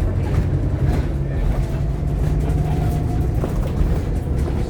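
Scania K230UB OmniLink bus heard from inside while under way: a steady, deep diesel engine rumble with a faint whine and a few light rattles.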